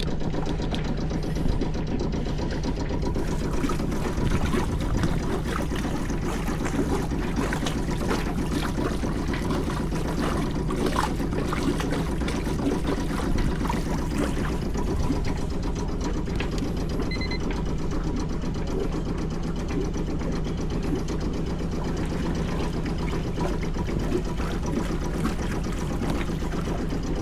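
A sailboat's small inboard diesel engine idling steadily in neutral, with an even clatter.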